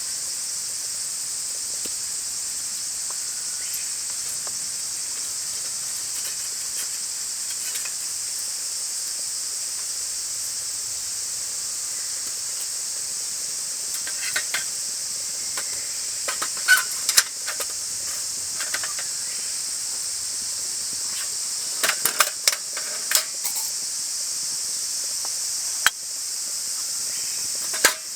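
A steady, high-pitched summer insect chorus shrilling without a break. A few clusters of sharp clicks and snaps come through it about halfway through and again later.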